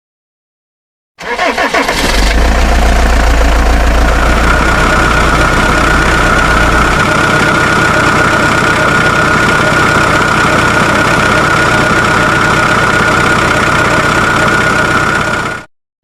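Small motor on a homemade miniature machine starting about a second in and running steadily, with a steady whine from about four seconds in, then cutting off abruptly near the end.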